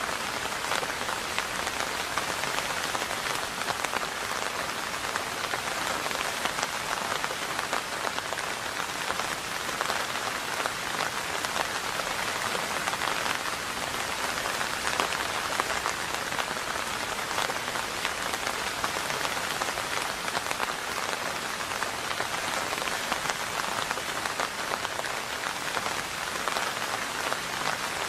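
Steady rainfall, a dense, even patter of raindrops striking a surface, with no let-up.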